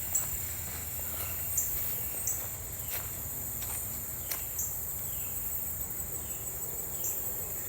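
Woodland insects, crickets among them, keeping up a steady high drone, with short high chirps coming every second or so and a few sharp clicks.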